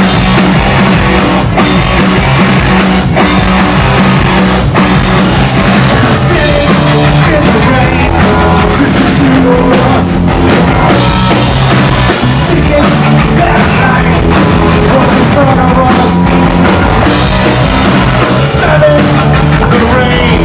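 A live rock band playing loud and without a break: drum kit, bass and electric guitars, with singing.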